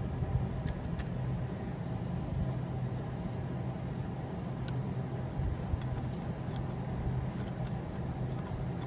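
Steady low mechanical hum, with a few light clicks of something being handled.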